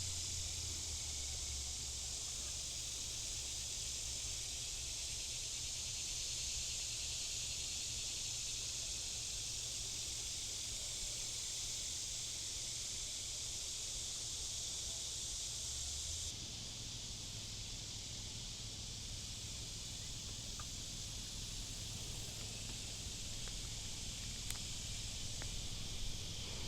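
Steady high-pitched drone of an insect chorus, which changes abruptly and grows a little quieter about two-thirds of the way through.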